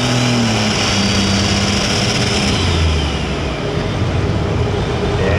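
Multi-turbocharged diesel engine of a light super stock pulling tractor running loud, with a high whine over it that falls away about halfway through.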